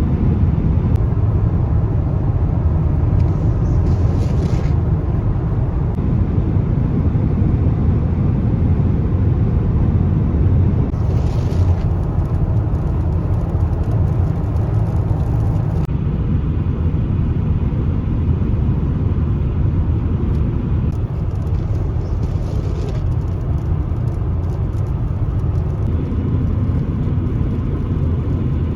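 Steady low road and engine rumble of a car driving, with brief swells of hiss about three seconds in, from about eleven to sixteen seconds, and around twenty-one seconds.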